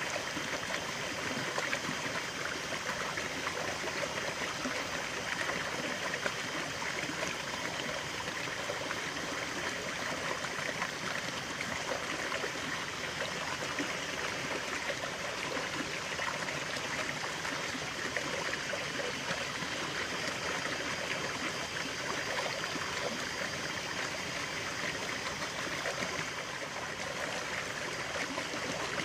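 Stream of water running and trickling steadily, an even babbling rush.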